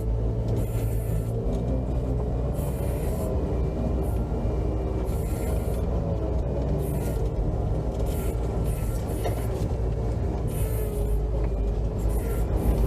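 Off-road vehicle engine running steadily, a low rumble, with short hissy patches every second or two.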